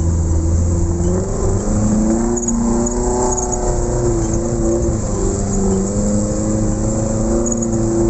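Off-road vehicle's engine revving under load, its pitch climbing about a second and a half in, dropping back around the middle and rising again near the end.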